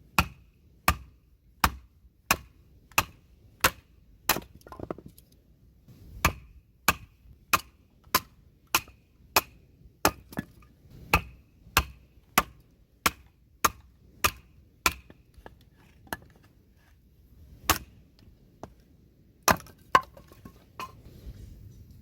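Repeated chopping strikes, about one and a half a second, each a sharp knock with a brief ring. There is a short pause about five seconds in and a longer gap later before a few last strikes.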